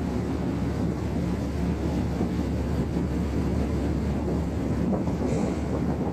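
Ferry Kitakyushu's engines running with a steady low rumble and hum as the ship gets under way, with wind buffeting the microphone.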